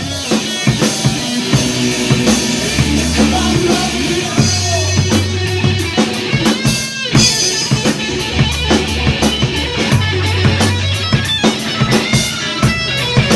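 Rock music led by a full drum kit, with bass drum, snare and fast cymbal hits over bass and guitar.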